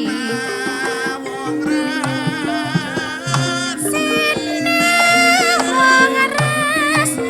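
Javanese gamelan music: metallophones play a stepped melody over regular drum strokes, with a high, wavering melodic line above that grows louder about halfway through.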